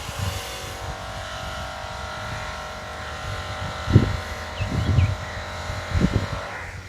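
SJRC F11S 4K PRO quadcopter's propellers whirring steadily in several even tones as the drone comes down to land, cutting off just before the end as the motors stop. Wind buffets the microphone in gusts a few seconds in.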